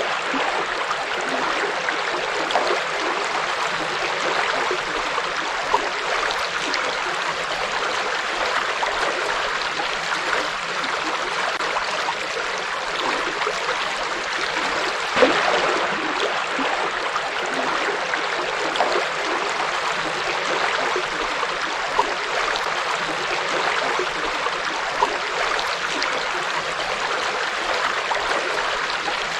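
River water flowing: a steady rushing, with a few brief louder splashes, the clearest about halfway through.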